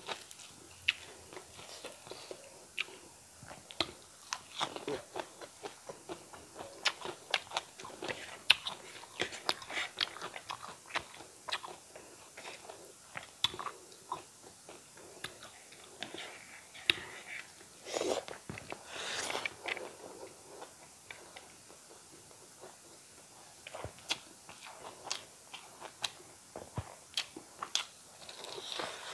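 Close-miked eating of fried eel and rice by hand: chewing and crunching with many sharp mouth clicks, busiest in the first half, with a short lull about two-thirds of the way in.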